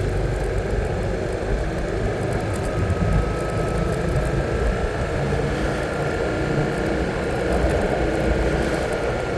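Steady engine and road noise from a vehicle being driven at low speed, with a faint high steady tone running through it.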